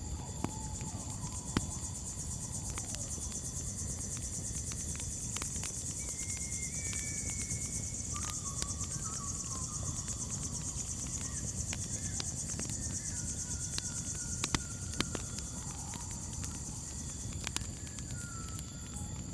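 Campfire crackling with scattered sharp pops over a low steady rumble, under a continuous high-pitched cricket chirring. A few short whistled bird calls come in from about six seconds on.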